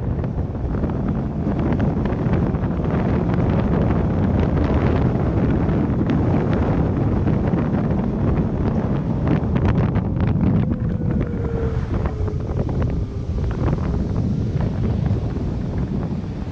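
Wind buffeting the microphone over a steady low rumble from a car on the move, with a few scattered clicks.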